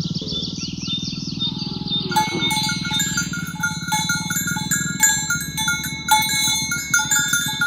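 A cow's low, drawn-out moo fades out about two seconds in, followed by a run of clear, bell-like chiming notes.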